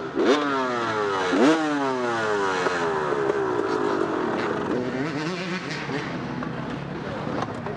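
Dirt bike engine revved sharply twice, about a second apart, each time the revs falling away slowly, then running at lower revs.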